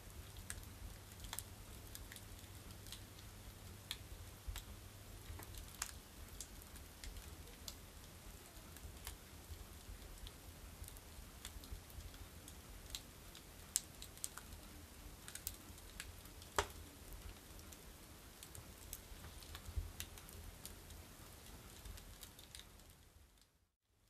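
Firewood burning in a stove, crackling with irregular sharp pops and snaps over a faint steady background. The sound fades to silence just before the end.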